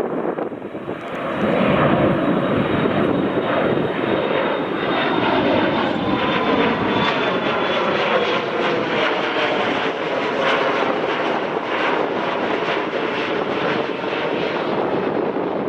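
Jet airliner's engines passing close by, a loud steady rush that builds about a second and a half in, with a thin high whine slowly falling in pitch.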